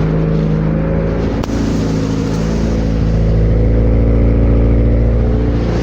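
Honda Civic engine running through a cheap eBay 'fart cannon' muffler, with a steady exhaust note that grows louder from about three seconds in.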